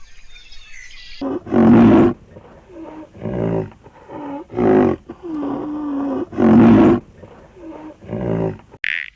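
A big cat roaring: a run of about eight deep, pitched calls beginning about a second in, the louder ones alternating with softer, shorter ones.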